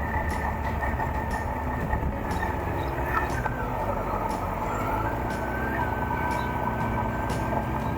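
Suzuki GSX1400 inline-four motorcycle engine running steadily at town speed, with road and wind noise from the ride. A faint sharp click comes about once a second.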